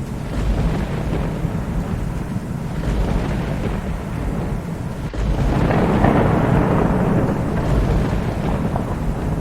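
Thunder rumbling over steady rain, swelling into a louder roll about halfway through.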